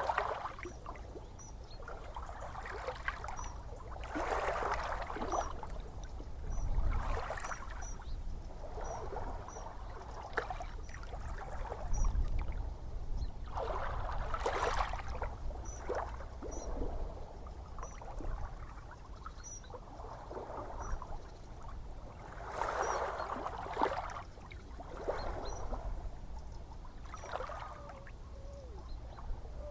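Small ocean waves lapping and splashing at the shore, a fresh wash every two to three seconds over a steady low rumble of surf.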